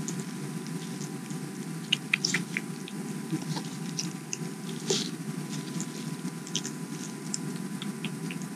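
Sifaka lemur chewing leaves close by: soft irregular crunches and clicks, with a cluster about two seconds in and a stronger one about five seconds in, over a steady low background hum.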